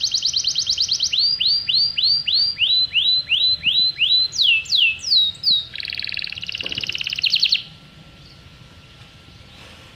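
A songbird singing a varied song: a fast high trill, then a run of repeated curved notes about three a second, a few falling whistles, and a buzzy trill that stops about seven and a half seconds in.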